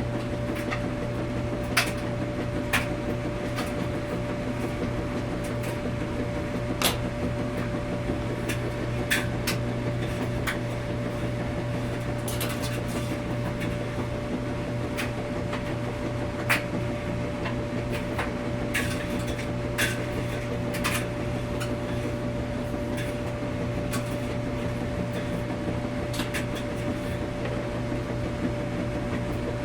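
Washing machine running with a steady hum and a constant tone, with light clicks and knocks dotted irregularly throughout.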